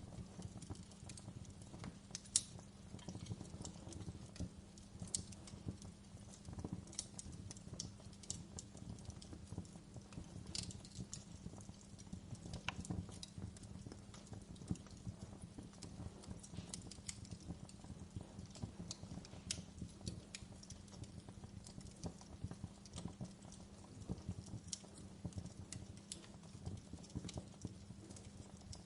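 Wood fire crackling in a fireplace: irregular pops and snaps over a low steady hum, with one sharper pop about two seconds in.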